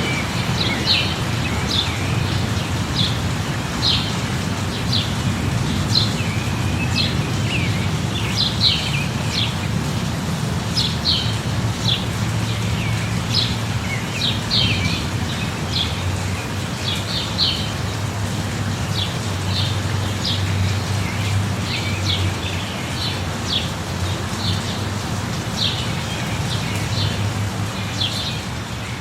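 Steady rain with birds chirping over it: short, high chirps again and again, over a low steady rumble.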